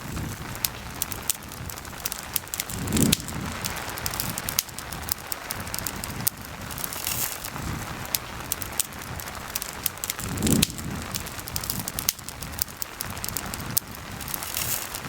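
Campfire crackling with frequent sharp pops over a steady patter of rain. Two brief low thumps stand out, about three seconds in and again about seven seconds later.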